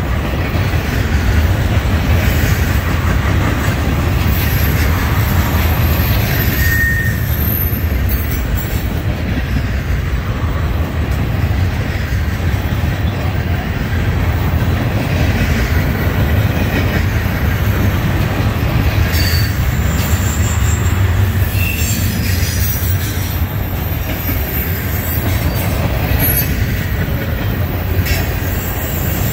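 Freight train of covered trash cars rolling past: a steady, loud rumble of steel wheels on the rails, with brief thin wheel squeals coming and going over it.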